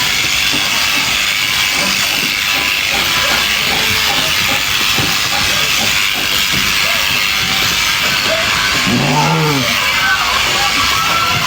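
Electric sheep shears running through a fleece, a steady loud hiss. About nine seconds in, a short call rises and falls once over it.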